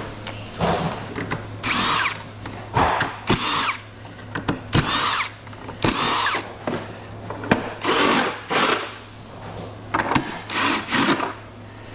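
Power drill run in about nine short bursts with pauses between, backing screws out of an old air conditioner's casing. A steady low hum sits underneath.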